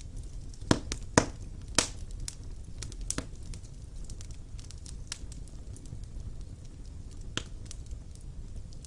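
Wood fire burning in a fireplace: a steady low rumble of flame with irregular sharp crackles and pops, three loud ones in the first two seconds and a few scattered later.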